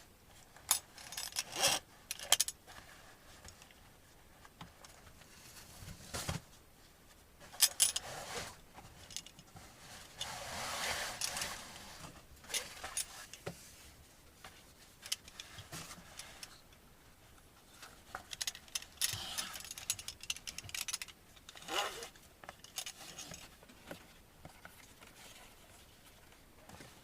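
Scattered clicks, small knocks and rustles of someone handling things and moving about while getting ready for bed. About ten seconds in there is a longer swishing rustle lasting a couple of seconds.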